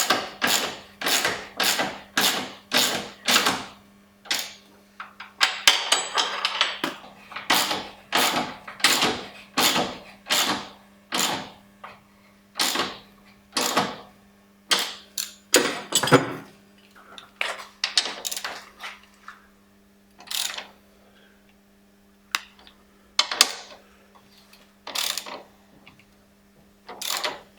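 Socket ratchet clicking in repeated strokes as it tightens the clamp bolt of a front anti-roll bar bushing. The strokes come about twice a second at first, then slow and space out toward the end as the bolt snugs up.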